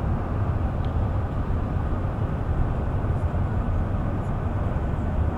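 Steady low rumble of a bus under way, heard from inside the passenger cabin: engine and road noise with no change in pitch.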